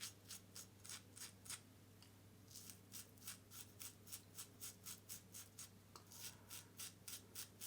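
Faint, quick scratchy strokes of a single-edge safety razor cutting through lathered stubble, about five strokes a second in three short runs with brief pauses.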